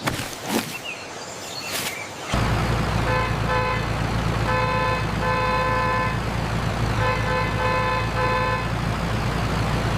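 A few clicks and knocks, then about two seconds in a vehicle engine starts and runs steadily with a low rumble. Its horn toots over it in a string of short blasts, about half a second to a second each.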